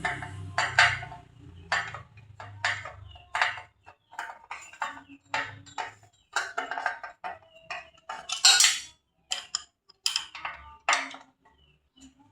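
Irregular metallic clinks and knocks of metal parts and tools being handled while a scroll saw is worked on, with a low hum fading out over the first few seconds.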